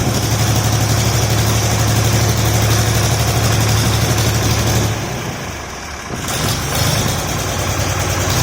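Ford 4000 tractor engine running at a steady idle; it goes briefly quieter about five seconds in, then picks back up.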